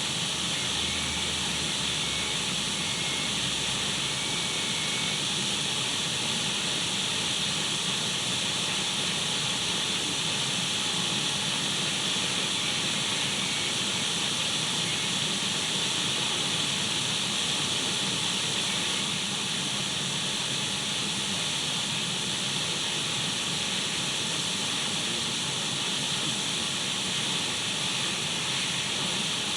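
Radio static: steady hiss of an untuned radio, even and unchanging, with a few faint steady tones under it.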